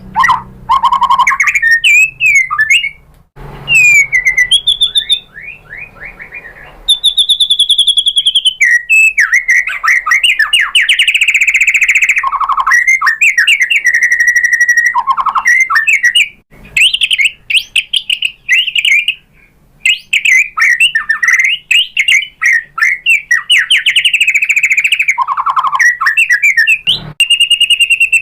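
White-rumped shama singing a long, varied song of clear whistles, sliding notes and fast trills, with short pauses about 3 seconds and 16 seconds in.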